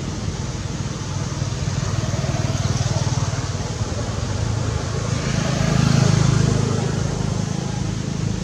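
Motor vehicles passing: a steady low engine hum that swells twice, loudest about six seconds in.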